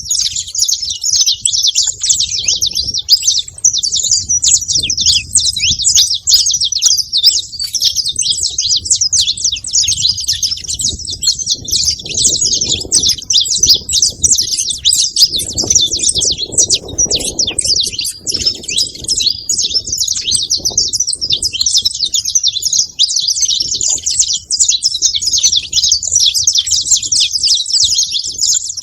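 A flock of saffron finches chirping and chattering without a break, many high calls overlapping.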